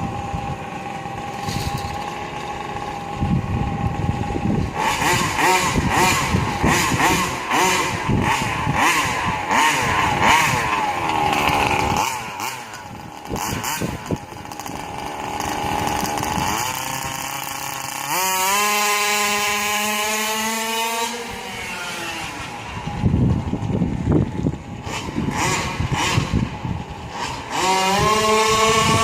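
Rovan 5T's 36cc two-stroke engine running, first at a steady idle, then revving up and down repeatedly. About two-thirds through, the pitch climbs and holds high for a few seconds, then falls back before rising again near the end.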